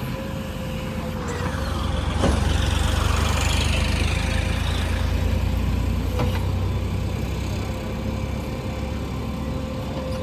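Heavy diesel machine engine running, its note swelling louder for a few seconds about two seconds in, then settling back, with a couple of short knocks.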